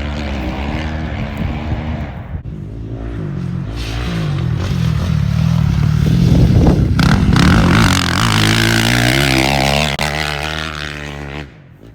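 Motocross dirt bike engine revving up and down through gear changes as it rides the track. It grows louder toward the middle, then drops away sharply near the end.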